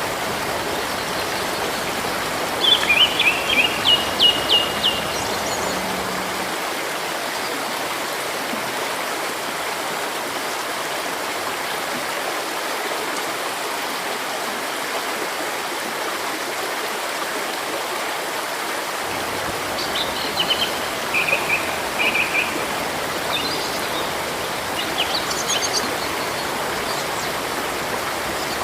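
Steady rushing of a river, with a bird giving a quick run of sharp chirps a few seconds in and more scattered bird calls in the last third.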